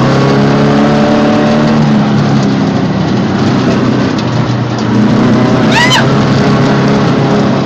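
Off-road vehicle's engine running under load on a dirt track, its note rising twice as the throttle opens, over steady tyre and gravel noise. About six seconds in, a short high-pitched squeal rises and falls.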